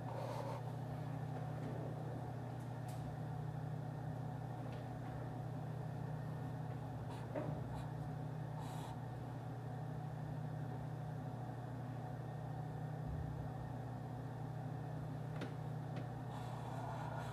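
Steady low hum of office room ambience, with a few faint clicks and taps scattered through it.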